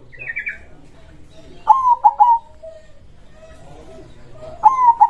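Zebra dove (perkutut) cooing: twice, about three seconds apart, it gives its phrase of a swooping first note and two quick short coos, each phrase under a second long. A brief, faint higher chirp comes just at the start.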